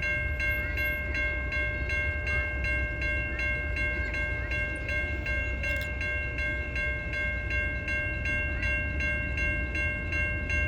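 Railroad grade-crossing warning bell ringing steadily, about three strokes a second, over the low rumble of a Norfolk Southern freight train.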